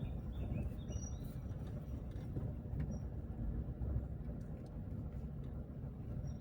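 Car driving along a road, a steady low rumble of engine and tyres. A few short bird chirps sound over it, near the start and again now and then.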